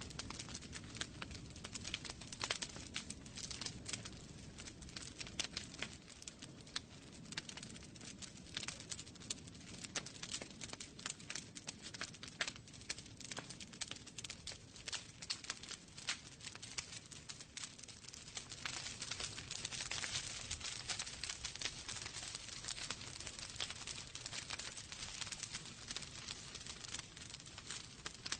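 Wood fire burning in a fireplace, crackling with many small irregular pops over a low rumble of flame, and a stretch of brighter hissing about two-thirds of the way through.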